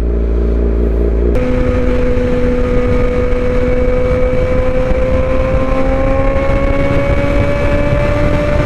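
Suzuki GSX-R750 inline-four with aftermarket headers and slip-on exhaust, running steadily at first, then, after an abrupt change about a second and a half in, riding at speed under heavy wind noise with the engine note rising slowly.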